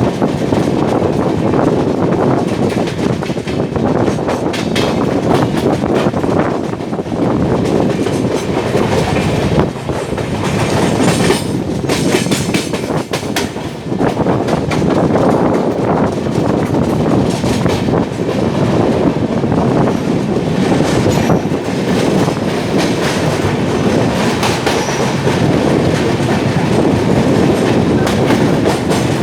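Passenger train running through a station at speed without stopping, its coaches rolling past in a loud, steady rumble with wheels clattering over the rail joints.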